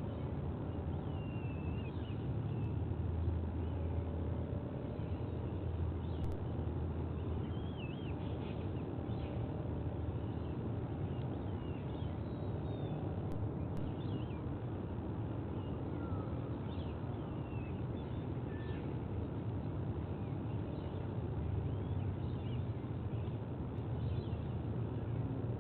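Many short, high bird chirps and squeaks scattered throughout, over a steady low rumble.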